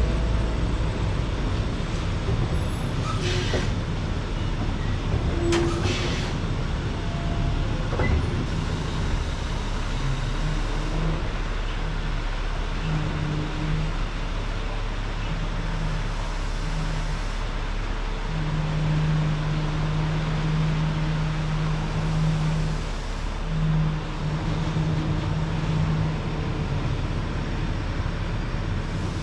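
Heavy vehicle running steadily: a constant low engine rumble with dense noise over it, a low hum coming and going through the middle, and a few sharp knocks in the first few seconds.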